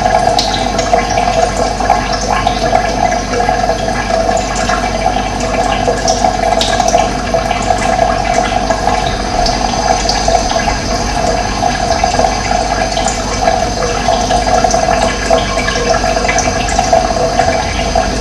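Running water rushing steadily, with a few faint bird chirps now and then.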